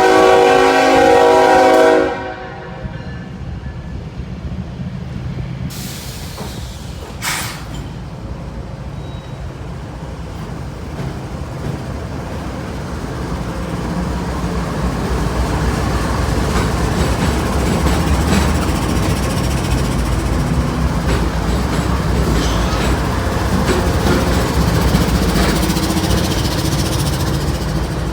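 Diesel locomotive horn sounding one chord of about two seconds, then the rumble of the locomotive and train growing louder as it approaches, with wheels clacking on the rails.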